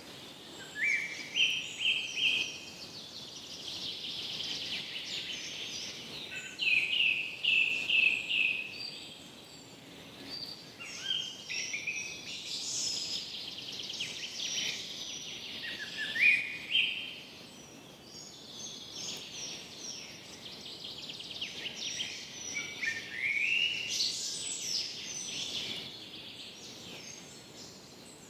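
Several forest birds singing and calling over one another. Loud phrases of short notes stepping upward in pitch come back every few seconds, over a continuous faint chatter of other birds.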